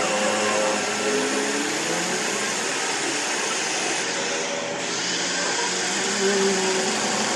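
A small engine running steadily under an even hiss, its pitch drifting slightly up and down.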